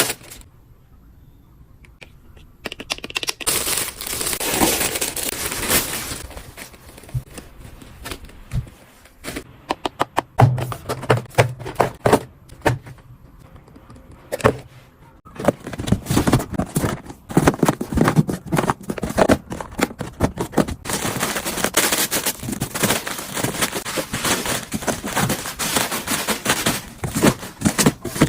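Hands packing small items: plastic packaging crinkling and rustling, with many taps, knocks and clicks as things are picked up and set down.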